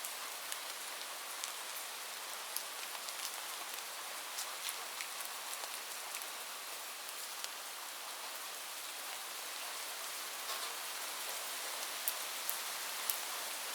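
Heavy rain falling on a roof: a steady hiss with many scattered sharp drop ticks.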